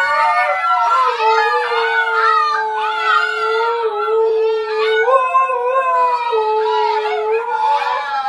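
Dog howling in long drawn-out notes, with other higher, wavering howls over it.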